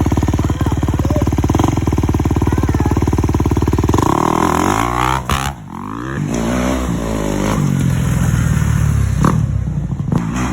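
Dirt bike engine running steadily, then about four seconds in the revs drop away briefly and build back up as the throttle is opened again.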